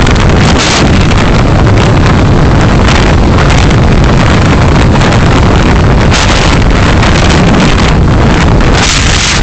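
Loud, steady road and wind noise of a moving car, heard through a dashcam microphone, with a low engine drone underneath.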